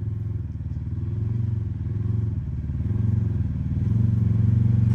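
Side-by-side UTV engine running at low revs as the machine crawls slowly through a ditch, the revs swelling and easing a little and growing louder toward the end.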